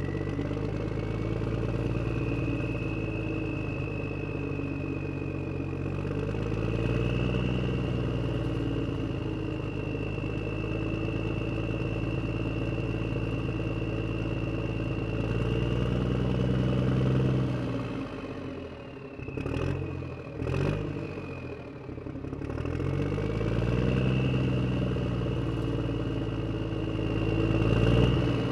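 A motor vehicle engine running and revving, its pitch rising and falling several times. About twenty seconds in it drops away briefly, with a couple of short knocks.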